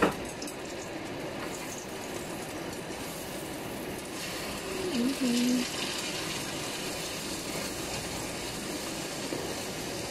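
Oil sizzling steadily in a frying pan as tortang talong (eggplant omelette) fries.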